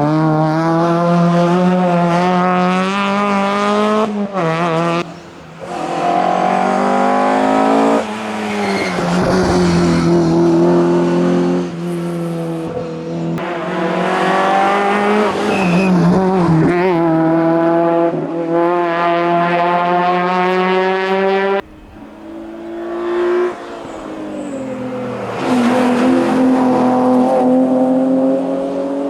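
Hillclimb race car engines at high revs, the pitch holding and climbing through the gears and dropping at each shift. Sudden breaks in the sound mark cuts from one car to the next.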